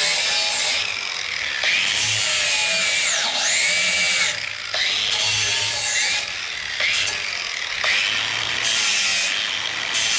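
Electric sander grinding paint off steel, its motor note dropping when pressed into the work and rising again when eased off, several times over in separate passes.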